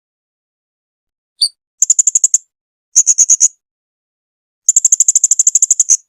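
Blue-crowned hanging parrot (serindit) calling: a single short note, then three bursts of rapid, high-pitched chirps, the last and longest lasting about a second and a half.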